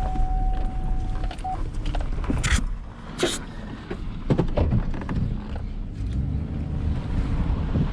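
Low, steady engine and road rumble of a pickup truck, heard from inside the cab. A thin steady tone stops about a second and a half in, and several short knocks and rattles are scattered through the rumble.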